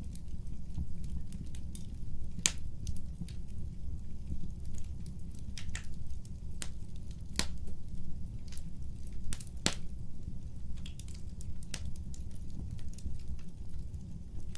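Wood fire crackling: a steady low rumble of burning with irregular sharp pops and snaps, a few of them much louder than the rest.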